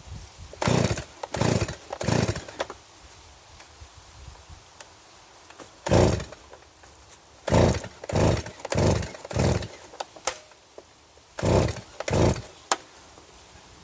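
Stihl MS170 two-stroke chainsaw being pull-started: about ten quick yanks of the recoil starter cord in three bunches, the engine turning over on each pull without catching. The saw won't start, which the owner puts down to contact cleaner that got into the carburettor.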